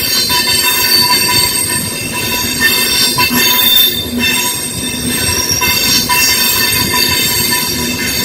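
ICE 1 high-speed train passing over a level crossing, its wheels squealing in several thin, high, steady tones over the rumble of the cars on the rails.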